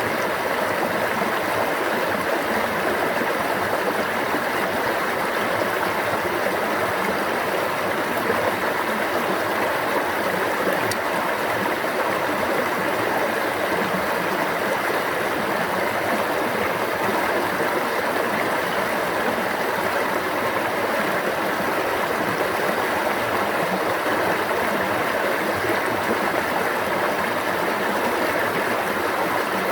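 Stream water running and babbling steadily, an even rushing sound with no breaks.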